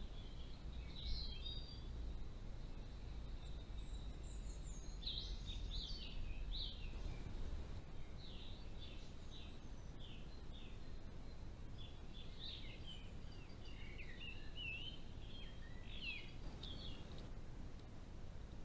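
Small birds chirping and singing in short scattered calls and trills, over a steady low rumble of background noise.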